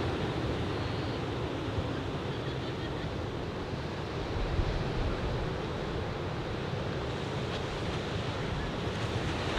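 Ocean surf from an arriving typhoon swell, breaking and washing in a steady rush, slightly stronger about four and a half seconds in.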